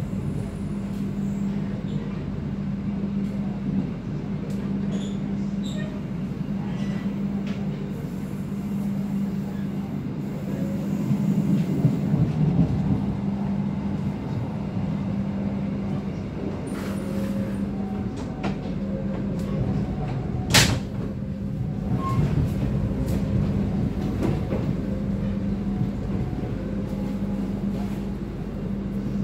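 INKA-built stainless-steel passenger train under way: a steady rolling rumble with a constant hum, and one sharp click about two-thirds of the way through.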